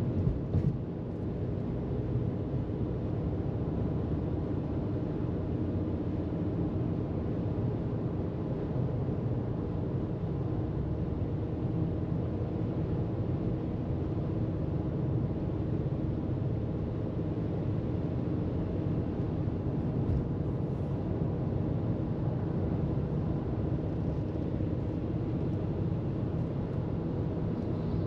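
Car travelling at freeway speed: a steady low rumble of tyres on the road and the engine, with a few light clicks about half a second in.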